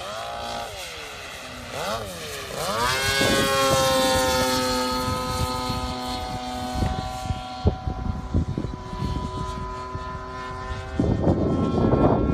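Radio-controlled model warbird's DLA-64 twin-cylinder two-stroke petrol engine and propeller in flight. The pitch swoops up and down as the plane makes quick passes, then settles into a long steady drone that sinks slowly in pitch. A louder rough rushing noise comes in near the end.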